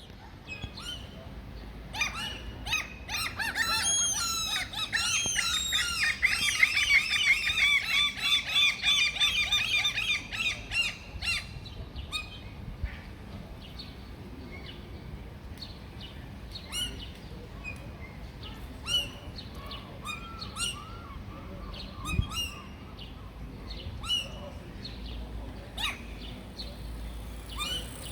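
Gulls calling: a long run of rapid, repeated calls from about two seconds in until about eleven seconds, then scattered single calls over a steady low background hum.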